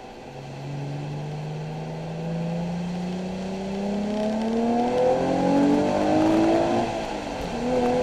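Nissan 370Z's 3.7-litre V6 accelerating hard, its note climbing steadily and getting louder for about six seconds, then dropping sharply near the end.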